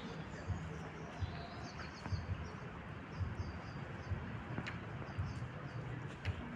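Small songbirds chirping and twittering: many short, high calls in quick runs, over low, irregular thumps.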